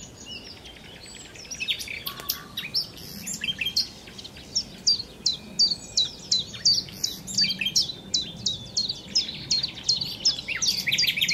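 Songbirds chirping busily: a dense stream of short, high, downward-sweeping chirps, several a second, thickening from about four seconds in.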